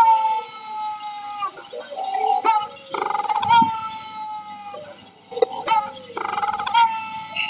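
Bird calling: three long calls about three seconds apart, each falling slightly in pitch, with short sharp clicks and softer, lower calls between them.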